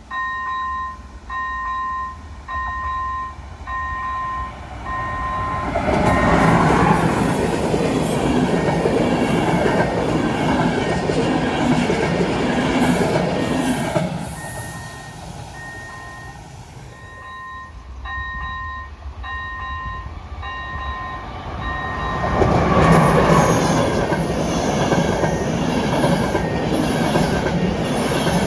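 Railway level-crossing warning bell ringing, a steady electronic ding about once a second, which is drowned out twice by the loud rumble and rush of a train passing, with wheel squeal.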